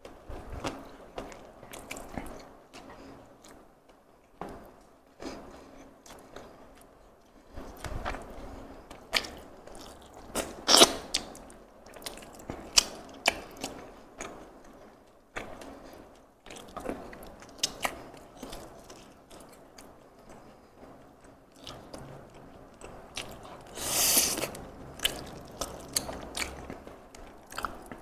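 A person chewing and biting food close to the microphone, with irregular wet clicks and crunches; the loudest bites come about 11 s and 24 s in.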